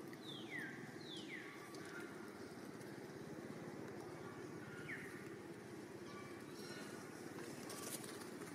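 Outdoor ambience: a steady low rumble with a bird giving three quick whistled calls that slide down in pitch, two in the first second and a half and one about five seconds in.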